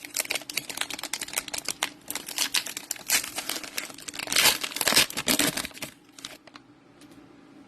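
Wrapper of a Donruss NFL trading card fat pack being torn open and crinkled, a busy crackling that stops about six seconds in.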